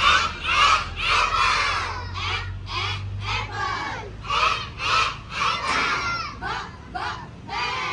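A group of children chanting short phonics sounds together in unison, loud and rhythmic at about two syllables a second.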